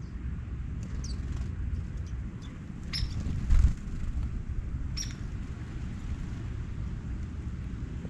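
A few short, high songbird chirps, one to two seconds apart, over a steady low rumble, with a louder low surge about three and a half seconds in.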